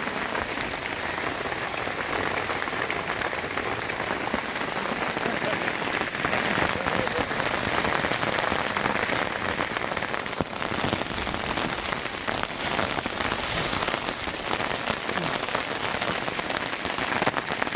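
Hail falling hard, a dense, steady patter of countless small ice pellets striking the surfaces around.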